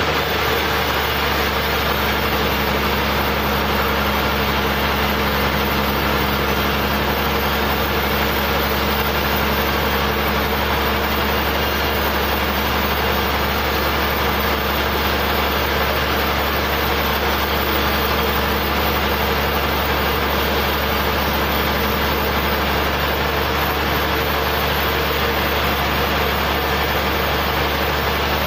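Sawmill engine running steadily at an even speed, a constant hum with no change in pitch or level.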